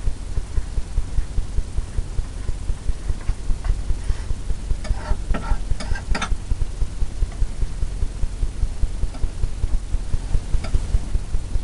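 A steady low hum that throbs about four times a second, with a short run of scraping taps about five to six seconds in from a painting tool working oil paint on the canvas.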